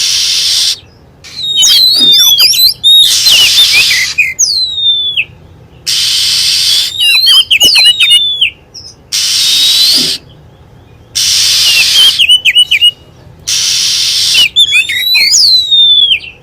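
Recorded lure call of a wild magpie-robin (kacer hutan). Harsh hissing rasps about a second long alternate with quick sweeping and falling whistled phrases, the pattern repeating roughly every three seconds.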